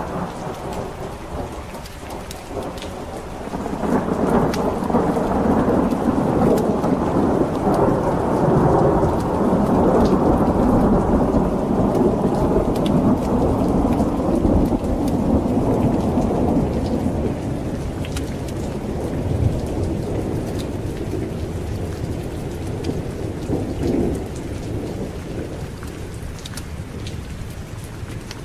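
Steady heavy rain with a long roll of thunder. The thunder swells about four seconds in, rumbles for over ten seconds, then slowly dies away under the rain.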